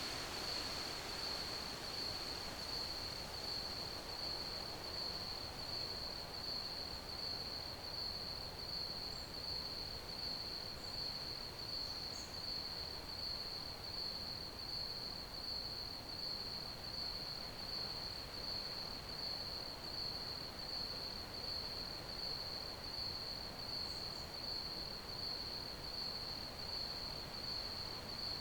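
Crickets chirping in a steady, continuous, high-pitched trill over a soft even background hiss. A few fainter, higher chirps come through now and then.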